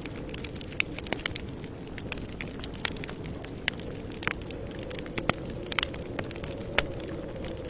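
Campfire burning with a steady low rumble, wood crackling and popping at irregular intervals, with one sharper pop near the end.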